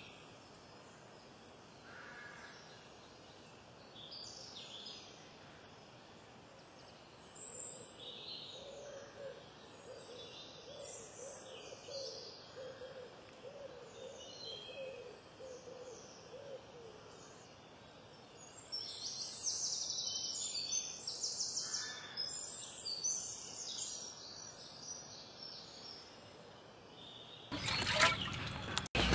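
Birds calling and chirping, with a run of low, evenly repeated bird notes lasting several seconds midway and a busier stretch of high chirping later. Near the end a short, loud rush of noise.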